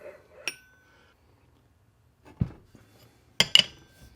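Machined metal parts of a grinder arbor being fitted together on the shaft: a light click with a short ring about half a second in, a dull knock a little after two seconds, and two sharp clinks near the end.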